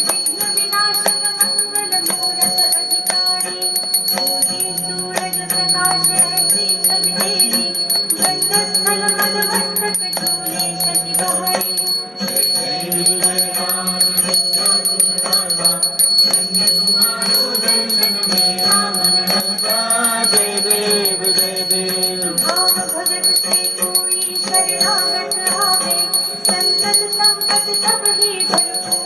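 Hindu devotional aarti music for Ganesh, with bells jingling and ringing over a steady rhythm throughout.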